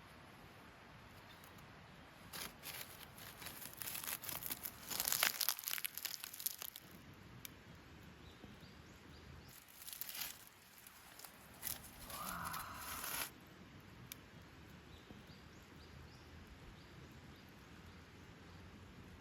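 Crinkling and tearing noises in two spells of a few seconds each, like something papery or plastic being handled and torn.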